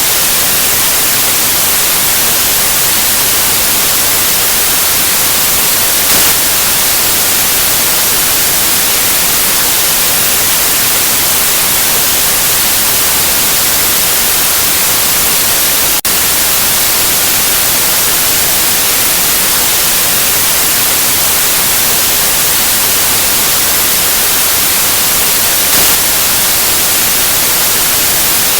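Steady white noise, a loud even hiss strongest in the treble, with a brief click and dip about halfway through.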